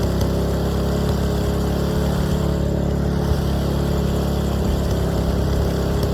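An engine running steadily at an even speed, a low hum of several steady tones.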